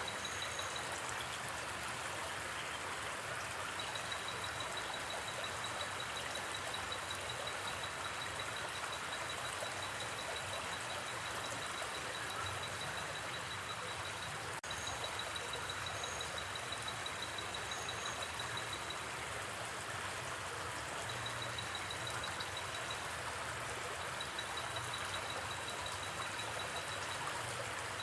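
Gently flowing river, a steady even rush of water, with a fast, high, pulsing trill of night insects that stops and starts, and a few short higher chirps. The sound drops out for an instant about halfway through.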